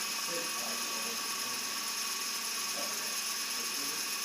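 Single-blade model helicopter rotor spinning at a steady speed, a constant mechanical whir with a steady high whine over it.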